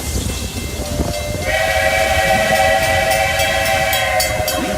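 Steam whistle of a Walt Disney World Railroad locomotive blowing one long chord-like blast, starting about a second and a half in and held for about three seconds, as the train nears a station. Under it runs the steady rumble of the moving train.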